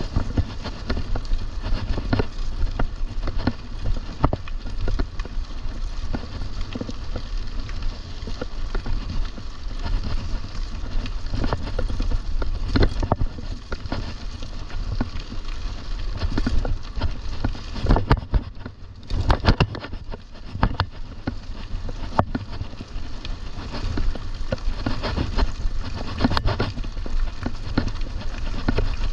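Wind buffeting the microphone over the rattle and clatter of a mountain bike rolling along a rough trail, with many short knocks and rattles and a flurry of sharper knocks about two-thirds of the way through.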